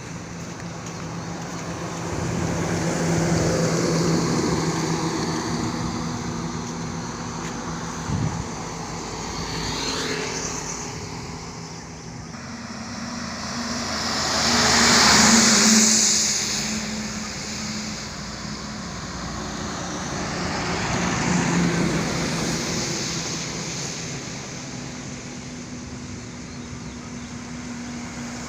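Trucks and other road vehicles passing one after another on a highway, each one's engine hum and tyre noise swelling and fading. The loudest pass is about halfway through, with a strong rush of tyre and wind noise.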